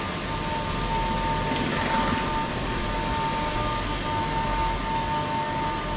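Electric train running at a station, a steady rumble and noise with a high steady whine held throughout.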